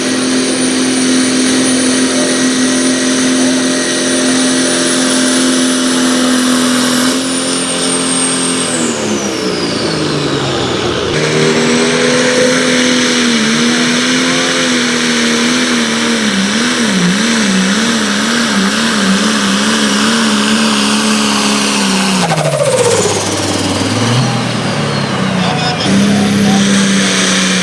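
Pulling vehicle's engine running at full throttle under heavy load on the sled, with a high whistle above it. The revs hold, sag about eight seconds in, then waver up and down as it bogs. About 22 seconds in they fall away, then pick up briefly near the end.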